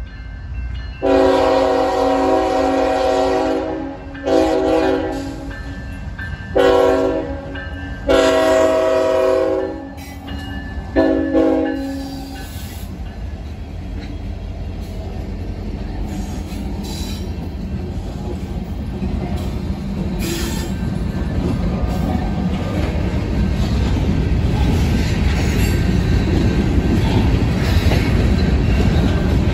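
Union Pacific GE ET44AH locomotive's air horn blowing five blasts for a grade crossing in the first twelve seconds. The locomotives and empty covered hopper cars then roll past with a rumble and clickety-clack of wheels on the rails, growing louder toward the end.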